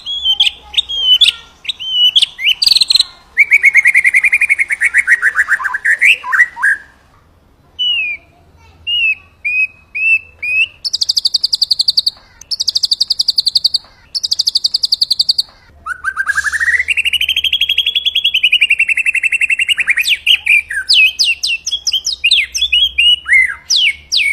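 White-rumped shama singing a varied song of whistled and sweeping notes and rapid rattling trills. It includes three short bursts of high, buzzy trills about halfway through, with brief pauses between phrases.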